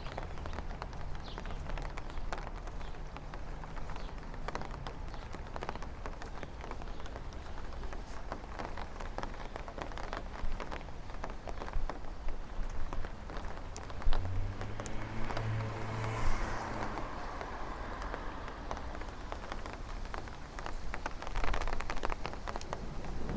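Steady rain falling on a city street, with many scattered drop taps. About two-thirds of the way in, a motor vehicle passes with an engine hum and tyre noise that rise and then fade.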